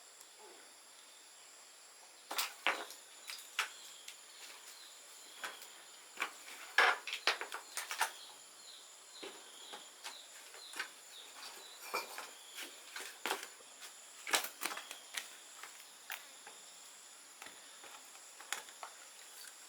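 Scattered light clicks, taps and knocks of tools and small metal motorcycle parts being handled, irregular and unevenly spaced, over a faint steady high-pitched tone.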